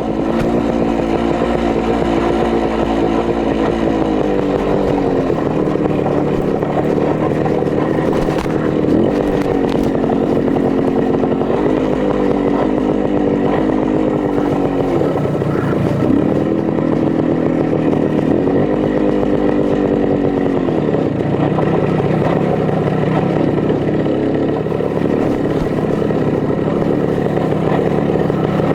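Minsk 125's single-cylinder two-stroke engine running under way, its buzzing pitch holding for a few seconds at a time, then dipping and swooping several times with throttle and gear changes.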